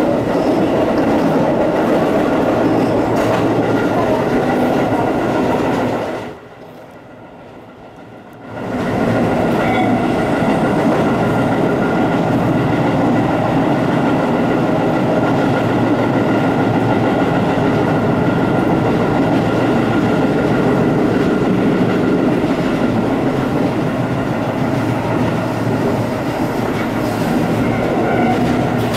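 Tobu Sano Line electric train running on the line, heard from just behind the driver's cab: a steady rumble of wheels on rail. About six seconds in, the sound drops away sharply for some two seconds, then comes back.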